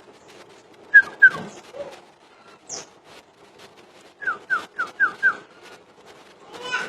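A cucak ijo (green leafbird) singing: two loud sharp notes about a second in, then a quick run of five short falling whistles a little after four seconds, and another call near the end.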